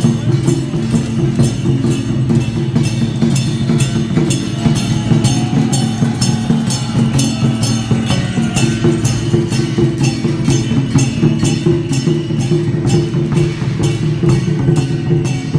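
Percussion music with a steady beat of about three strokes a second, like a wood block or small cymbals, over a sustained low tone.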